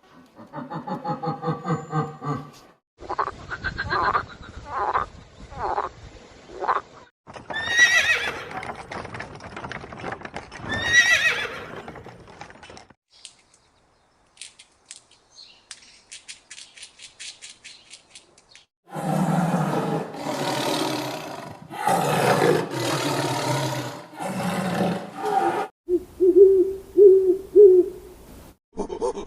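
A run of separate animal calls from different animals, one after another, with horses neighing among them; two calls about a third of the way in fall in pitch, and loud rough calls follow later.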